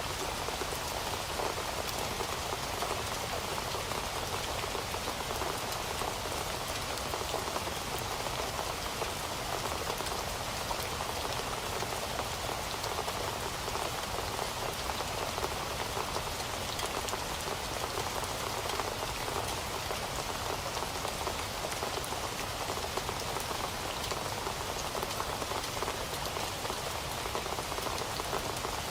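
Heavy rain falling steadily on a surface, a dense even patter of drops.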